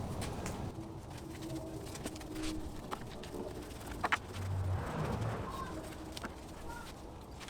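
A dove or pigeon cooing in short, low notes, with a couple of sharp clicks about four seconds in.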